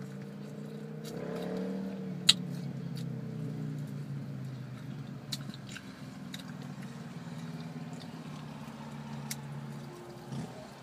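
Close-up chewing and biting on fried chicken wings, with sharp mouth clicks and smacks, the loudest about two seconds in. A steady low hum runs underneath.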